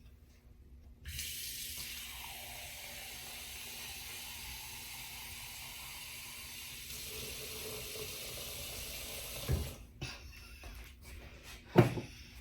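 Kitchen tap running water into a cup for about nine seconds, then shut off abruptly, followed by a couple of light knocks.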